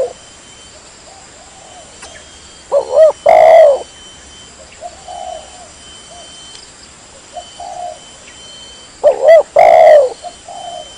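Spotted dove cooing: two loud phrases about six seconds apart, about 3 and 9 seconds in, each a couple of short coos running into a longer one. Fainter coos come in between.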